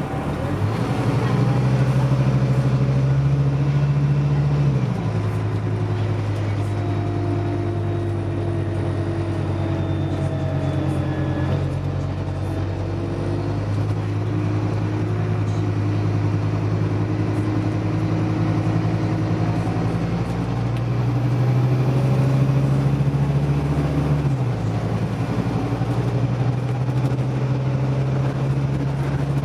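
Scania OmniDekka double-decker bus running on diesel, its engine note rising as it pulls away and then dropping sharply about five seconds in. The note climbs again later and drops again near the end, like the automatic gearbox changing up.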